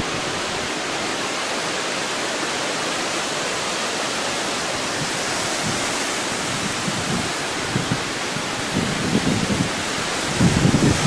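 Steady rushing noise of wind and water during a flood, with wind buffeting the microphone in low gusts near the end.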